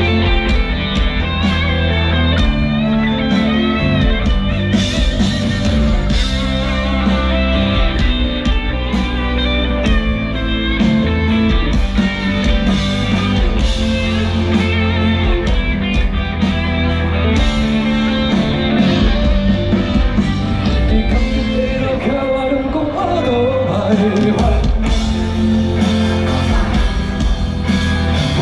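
A live rock band playing through a loud sound system, with amplified guitars, bass and drums keeping a steady beat, and some singing.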